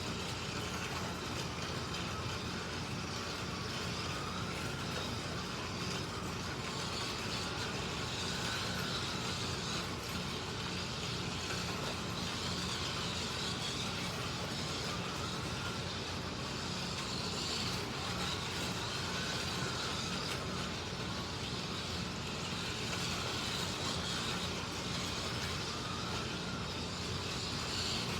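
Several electric slot cars lapping a slot car track, their small motors whining steadily with a pitch that rises and falls gently as the cars speed up and slow around the circuit.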